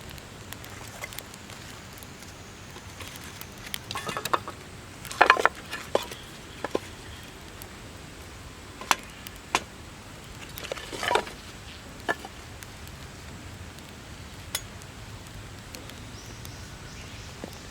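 Eating utensils clinking and knocking against camp cookware: scattered sharp clinks, a cluster about a third of the way in and another past the middle, over a steady low hiss.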